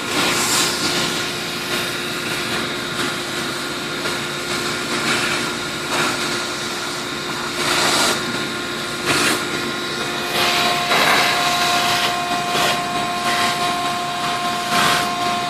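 Small engine-driven sprayer pump running steadily, its pitch shifting up about ten seconds in, with repeated short hissing bursts of spray from the hose.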